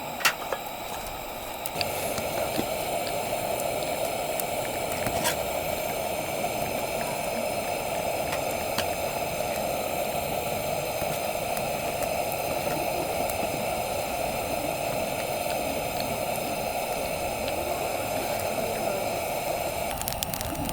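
Food or liquid cooking over a campfire: a steady bubbling hiss that sets in abruptly about two seconds in.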